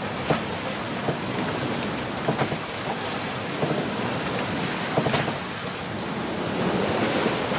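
Wind rushing over the microphone and waves slapping and splashing against a sailing yacht's hull in a rough, choppy sea, with several sharp splashes standing out above a steady rush.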